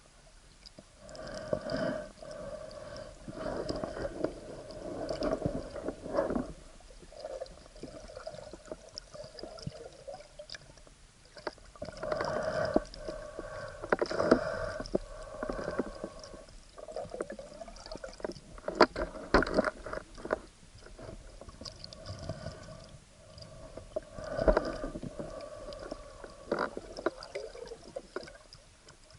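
Water gurgling and sloshing against an action camera's waterproof housing during an underwater spearfishing dive, in uneven bursts every few seconds with quieter stretches between.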